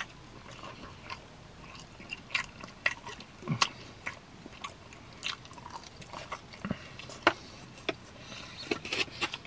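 Close-miked chewing and lip-smacking of a person eating roast chicken with the fingers: wet mouth clicks and smacks scattered throughout.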